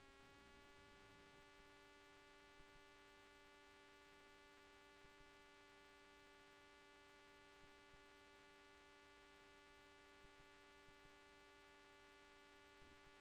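Near silence with a faint, steady hum made up of several held tones.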